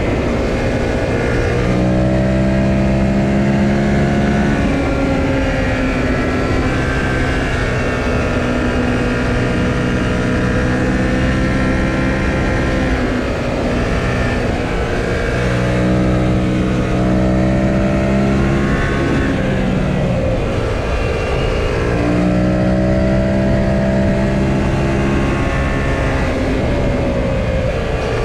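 2018 Yamaha XSR700's parallel-twin engine on the move, its pitch climbing under acceleration and dropping back several times, over steady wind and road noise.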